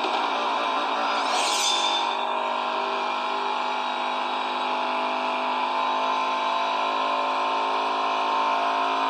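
Steady machine hum made of several held tones, with a short higher hiss sweeping through about one and a half seconds in.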